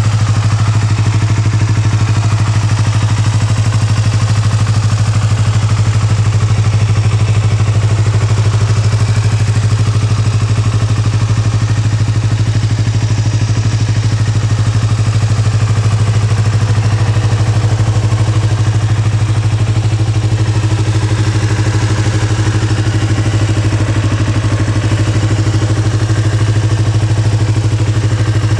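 Yamaha YZF-R25's 249 cc parallel-twin engine idling steadily through an aftermarket Akrapovič exhaust.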